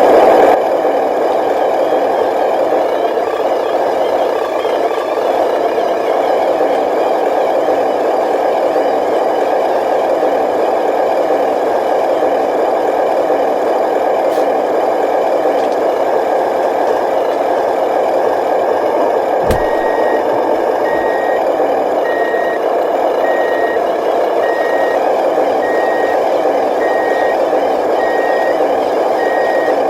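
Radio-controlled dump truck running with a steady, wavering mechanical drone. About two-thirds of the way through there is a click, and then a reversing beeper starts, sounding evenly at about three beeps every two seconds.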